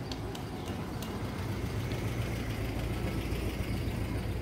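Motor vehicle engine running on a city street, a steady low rumble, with a few faint clicks in the first second.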